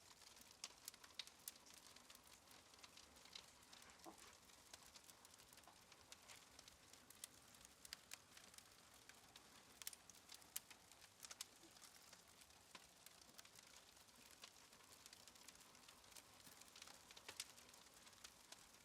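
Faint crackling of a wood fire: irregular sharp snaps and pops over a soft hiss.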